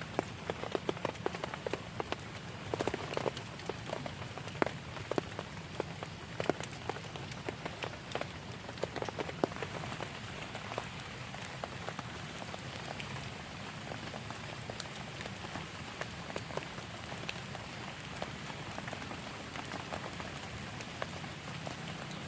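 Heavy rain falling steadily, with many sharp separate drops tapping close by. The close drops are thicker in the first half and thin out later.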